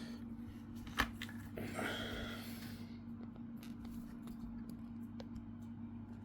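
Hands handling laptop parts during reassembly: a sharp click about a second in, a brief rustle, then a few light ticks, over a steady low hum.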